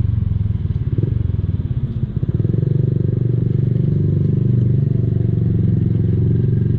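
Honda Blade single-cylinder motorcycle with an aftermarket racing exhaust running under way, a steady low pulsing exhaust note that dips briefly about two seconds in.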